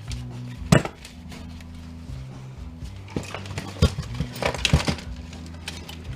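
Sharp clicks and clinks of wire cutters snipping wires and handling metal parts: one loud snap about three-quarters of a second in, then a cluster of clicks in the second half. Steady background music plays underneath.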